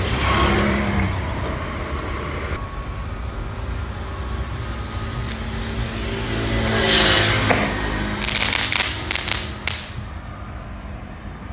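Steady rumble of traffic. About seven seconds in, a hiss swells, then comes a short run of sharp crackling pops lasting under two seconds: a crackling sky-shot firework going off weakly because it did not light properly.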